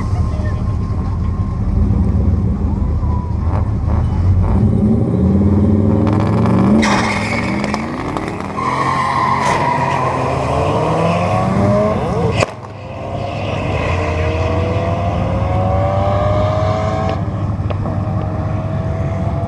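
Turbocharged 5.2-litre Magnum V8 in a Dodge Ram pickup, pulling hard through the gears on a drag pass. Its pitch climbs, drops at each shift and climbs again several times.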